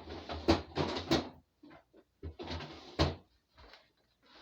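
Kitchen cupboard door being opened and shut, with handling and rummaging sounds. There are two spells of shuffling noise, with sharp knocks about half a second in, a second in, and again near three seconds.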